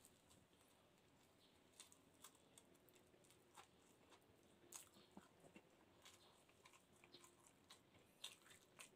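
Mostly near silence, broken by a few faint, sparse mouth clicks and smacks from chewing a mouthful of rice and fish.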